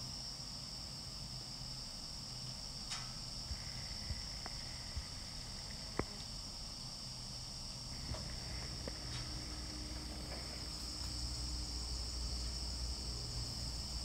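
Steady high-pitched whine of a forest insect chorus, with a few faint ticks and snaps here and there.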